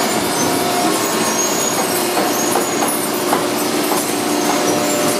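American Baler industrial baling machine running: a steady machine noise with a constant hum and a few faint clicks.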